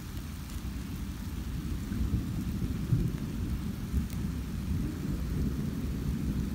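Low, uneven rumble of a thunderstorm.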